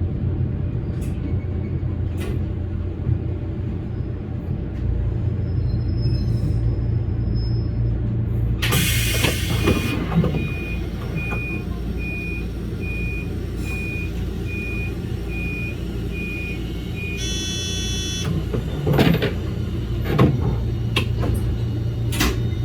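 Electric commuter train's steady low running rumble, with a burst of hissing air about nine seconds in, followed by a high beep repeating about twice a second for several seconds, a short chime, and a few sharp clicks near the end.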